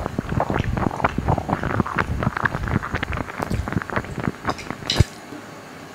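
Close-miked wet chewing and mouth sounds of a mouthful of instant noodles, a dense run of short smacks and clicks, ending with one sharp click about five seconds in.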